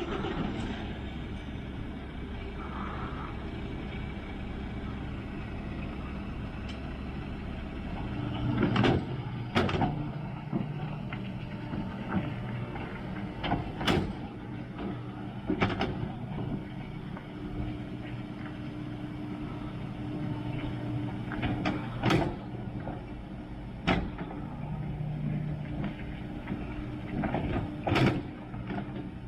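Mountain bike rolling along a track: a steady rumble of tyre and wind noise, broken by sharp knocks and rattles as it goes over bumps, about seven in all from around 8 seconds in.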